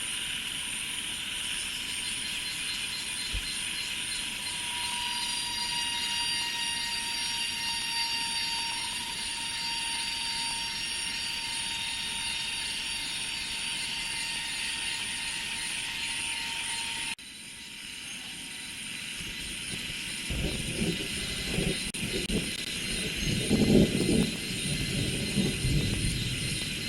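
Steady high-pitched insect chorus, with cicadas and other insects buzzing in overlapping continuous tones. About two-thirds of the way through, the sound drops off abruptly. Then a low, uneven rumble builds toward the end.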